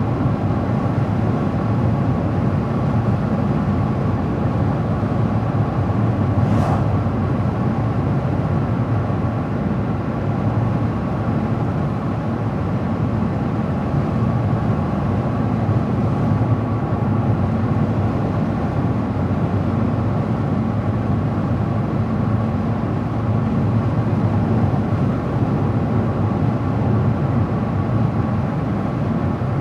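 A car being driven along an open road: steady engine and tyre noise with no change in speed.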